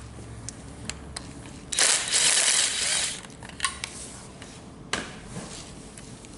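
A short burst of compressed air hissing out for just over a second, with scattered light metallic clicks of tools being handled around it.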